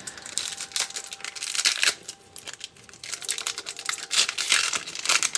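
Trading-card pack wrapper crinkling and tearing as it is opened, with irregular crackles and rustling; the handling briefly quietens about two seconds in.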